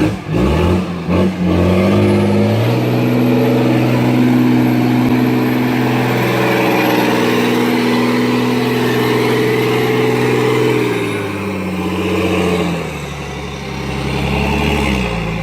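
A heavy vehicle engine, such as a logging truck's, revs up over the first two seconds and is held at high revs with a faint high whine. It drops back about eleven seconds in and picks up again near the end.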